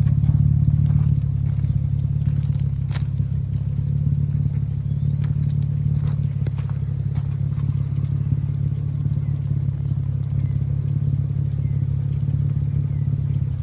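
Third-generation Mitsubishi Eclipse idling steadily through a newly fitted GReddy 2.5-inch titanium bolt-on muffler, a deep, even exhaust hum with no revving.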